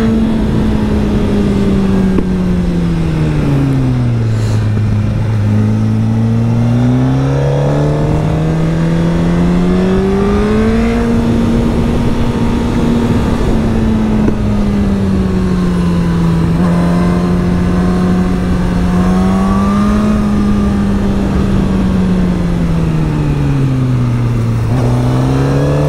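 Motorcycle engine running under way, its pitch sinking and climbing smoothly with the throttle as the bike rides through bends. The revs drop low about four seconds in, climb back and hold high around the middle, and dip again near the end, over a steady rushing noise.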